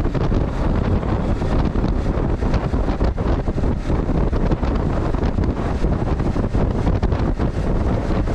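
Loud, steady wind buffeting on a GoPro's microphone during a boat ride, a continuous low rumble that covers everything else.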